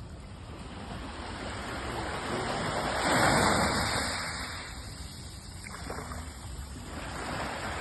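Sea waves washing ashore, the noise of the surf swelling to a peak about three seconds in and then falling back.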